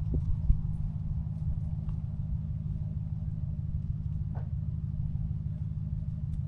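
An engine running steadily, a low even drone with a couple of light clicks near the start.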